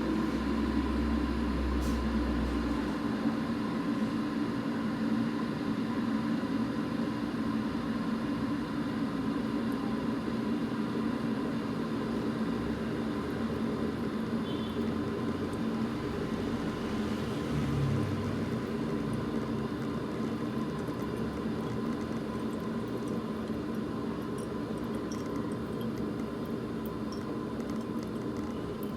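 Steam-driven 3.5-bar espresso machine running with a steady hum over a hiss.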